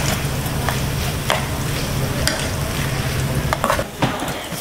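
Kimchi fried rice sizzling in a shallow pan on a tabletop burner while a spatula and tongs stir and scrape it, with a scrape about once a second over a low hum. The sizzling drops off about four seconds in.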